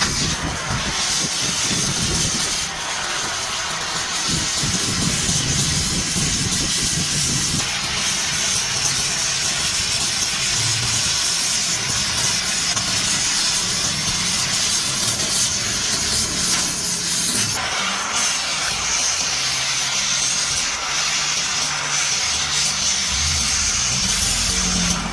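Steady hiss, as of welding on a car radiator, with faint low tones shifting underneath.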